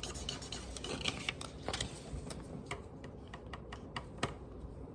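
Felt-tip marker working on paper: a string of irregular light taps and scratches as strokes are coloured in.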